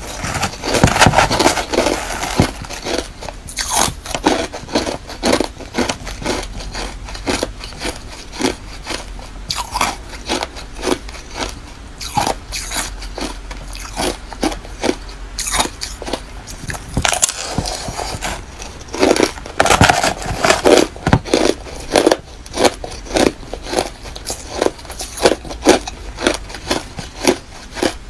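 Hard refrozen crushed ice being bitten and chewed close to the microphone: a dense run of loud, irregular crunches and cracks, with heavier bursts of crunching about a second in and again around two-thirds of the way through.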